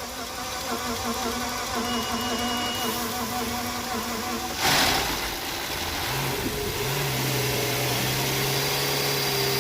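An engine running steadily, with a short burst of hiss about five seconds in, after which a lower steady hum sets in.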